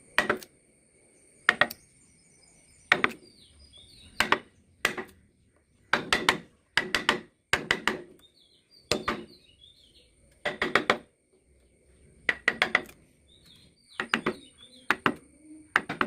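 Carving chisel being driven into wood by sharp blows, struck in quick clusters of two to four hits about every one to two seconds. Birds chirp faintly behind.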